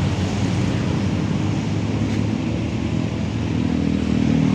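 Large truck's diesel engine running steadily, its low note growing a little stronger near the end.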